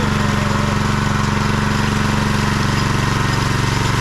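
An engine running steadily at constant speed, with an even, rapid firing pulse.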